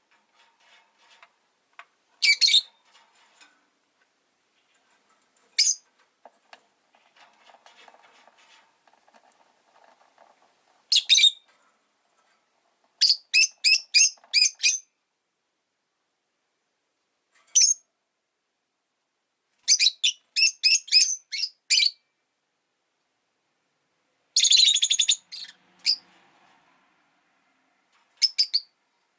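Rosy-faced lovebird giving sharp, high-pitched chirps, some singly and some in quick runs of four to six, with faint soft chatter in the gaps.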